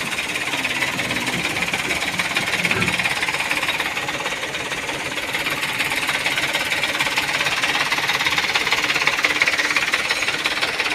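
Steady, rapid mechanical hammering that runs on without a break and swells a little near the end.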